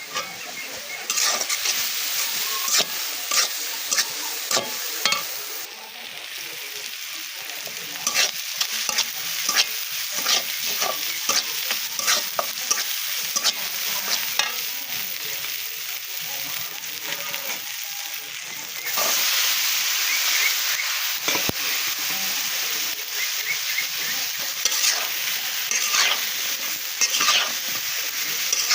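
Food sizzling in hot oil in a pan while a spatula stirs it, with repeated scrapes and clicks against the pan. The sizzle gets louder about two-thirds of the way through.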